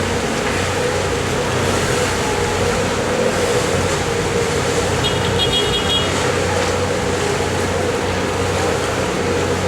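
Fast Cat catamaran ferry's engines running with a steady drone while it comes in to dock. About five seconds in there is a brief run of high beeps.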